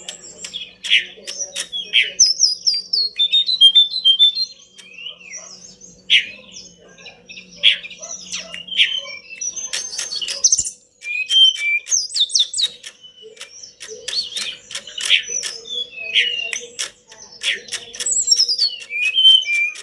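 Tledekan gunung (Sunda blue robin) singing in a rapid, varied run of chirps, clicks and short whistled phrases, with barely a pause between notes.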